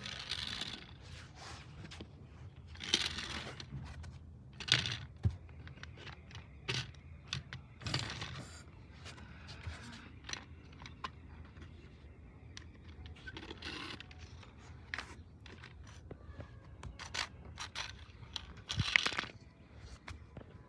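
Irregular scraping, crinkling and clicking from close handling of small objects, with louder rustles now and then, the loudest near the end.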